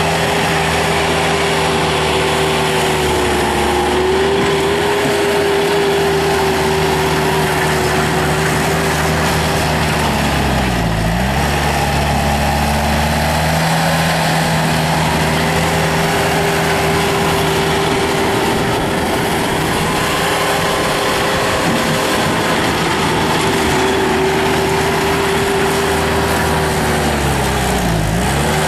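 Bobcat T300 skid steer's diesel engine running steadily at speed, its pitch pulling down briefly and recovering twice, about eleven seconds in and again near the end.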